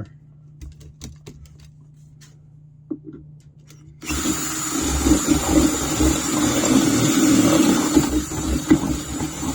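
A few faint clicks, then about four seconds in a power drill starts suddenly and runs steadily, boring into the shovel's aluminum to enlarge a hole with a larger bit.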